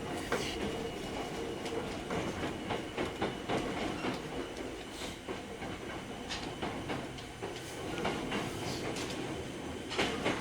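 Hankyu 3300 series electric train under way, heard from inside the car. The wheels clack irregularly over rail joints and points over a steady running rumble.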